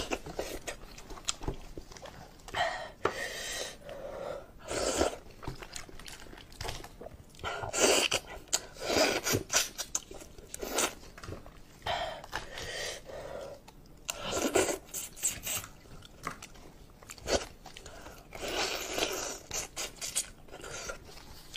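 Close-up mouth sounds of braised sheep-head meat being chewed, with crunching and wet bites in irregular bursts and short pauses between them, alongside gloved hands pulling meat from the head.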